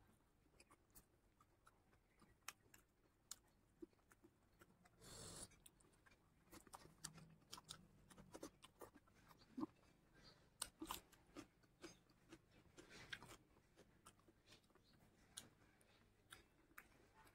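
Faint, close-up eating sounds from chewing a mouthful of rice and pork curry eaten by hand: scattered wet clicks and smacks, with a short hiss about five seconds in.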